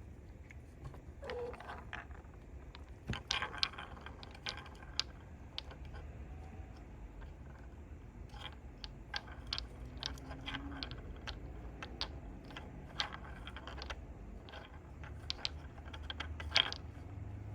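Kittens' paws and claws scrabbling as they play: scattered light clicks and scratches, busiest a few seconds in and again near the end.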